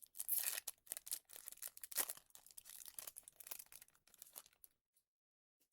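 Foil trading-card pack wrappers crinkling and tearing as packs are opened by hand, in quick irregular crackles that stop about three-quarters of the way through.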